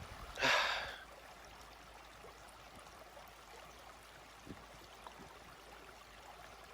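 Faint steady rushing like running water, with a brief, louder rush of noise about half a second in.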